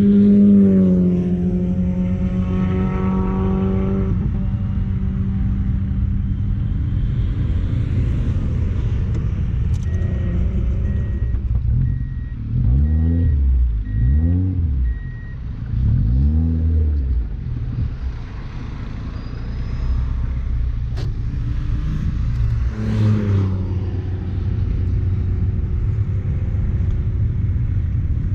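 Turbocharged Mazda Miata four-cylinder engine running hard on track: revs high at first and falling after about a second, then a steady drone, with several quick drops and climbs in engine pitch near the middle as it shifts through gears, and another rev change later on.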